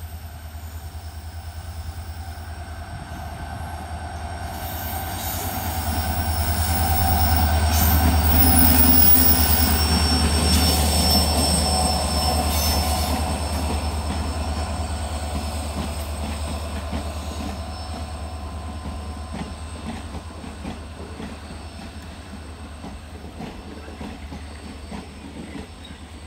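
Express train running through a station without stopping: a heavy rolling rumble swells to its loudest about eight seconds in and slowly fades as it goes by, with thin, steady, high-pitched wheel squeal over it.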